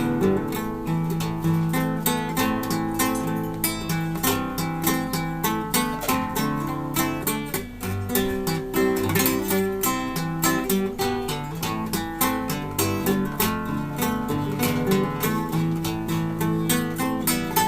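Classical guitar played solo: a continuous passage of quickly plucked notes, with a changing bass line under a higher melody.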